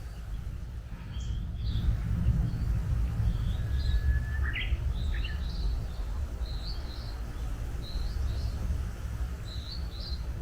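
Wild birds calling: short high chirps repeating through, and one longer whistled note about four seconds in that ends with a quick upward sweep, over a low steady rumble.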